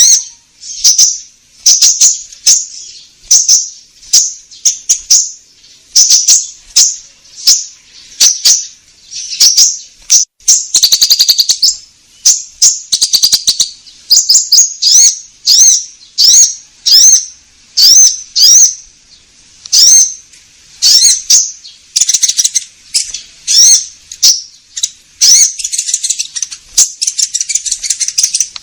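Konin birds calling: short, loud, high chirps repeated about once a second, each with a sharp click, breaking into quick chattering runs about ten seconds in and near the end. This is a lure call used to draw konin in.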